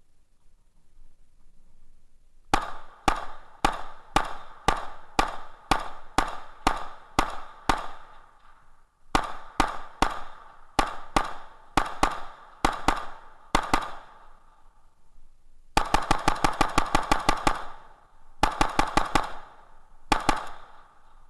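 Gunshots fired in strings: about two dozen evenly paced shots at roughly two a second, then, from about the middle on, fast strings of rapid fire, ending with a short burst of two or three shots.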